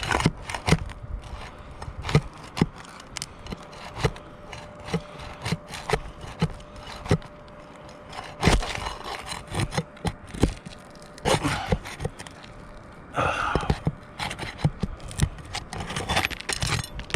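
Irregular clicks, taps and scrapes of work on an old asphalt roof shingle, as it is pried at to be removed; several longer scraping stretches come in the second half.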